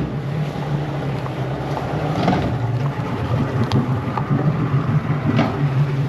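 Small fishing boat's motor running steadily at low speed, a constant low hum, with a couple of brief clicks.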